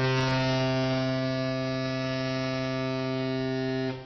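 One long, steady, low horn blast at a single pitch that cuts off abruptly about four seconds in.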